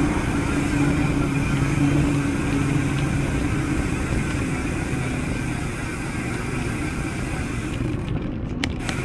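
A motor vehicle's engine running steadily, its hum fading over the first few seconds, with rushing wind noise throughout and a few clicks near the end.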